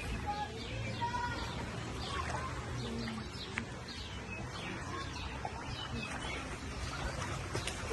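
Many small birds chirping, short falling calls overlapping one another, over a low steady hum.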